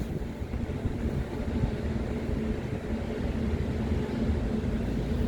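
A vessel's engine droning steadily: a low rumble with a constant hum.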